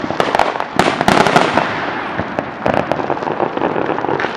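Fireworks going off: rapid sharp pops and bangs over dense crackling, busiest about a second in, then thinning out and fading.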